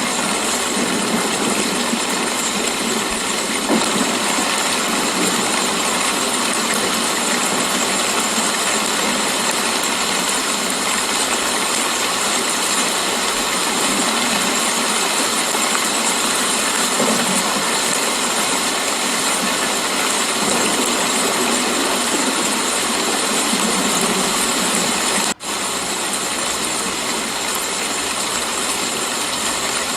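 Steady rain falling, an even hiss with no distinct drops standing out. It cuts out for an instant about 25 seconds in and resumes slightly quieter.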